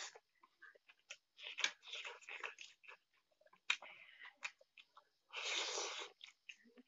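Close-miked mouth sounds of a person eating instant noodles: wet chewing, lip smacks and small clicks, with a louder breathy rush of about a second near the end.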